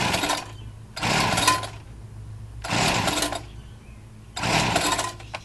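Homelite two-stroke string trimmer being pull-started cold: four pulls of the recoil starter rope, about one every second and a half, the engine turning over without catching. It is running only on fuel poured straight into the carburetor, as its fuel lines are split.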